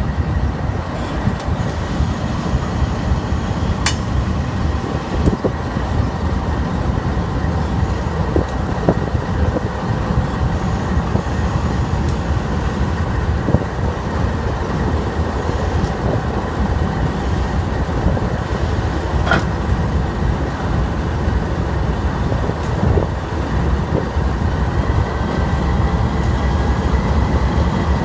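Passenger train moving on the tracks: a steady low rumble with a few sharp clicks and a faint thin high tone running through it.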